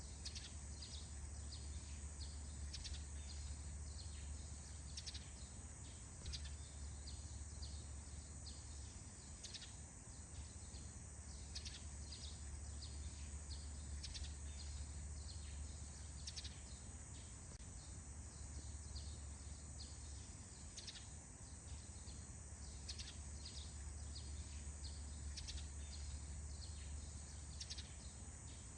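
Morning forest ambience: many short bird chirps scattered throughout, over a steady high insect drone and a low, even rumble.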